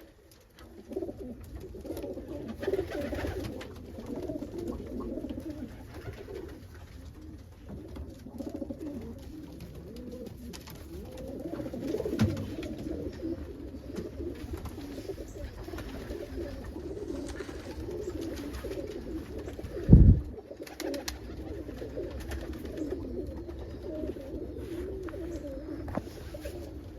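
A flock of Homer pigeons cooing continuously, many birds overlapping. A single loud low thump sounds about two-thirds of the way through.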